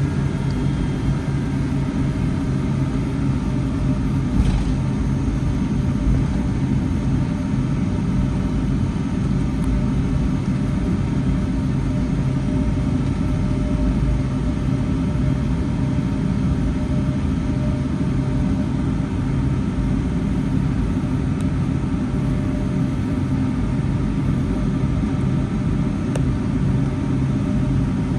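Steady cabin noise heard from a window seat of a Boeing 757-300 airliner: the low, even drone of the jet engines and rushing air, with a steady low hum. A single light tap comes about four seconds in.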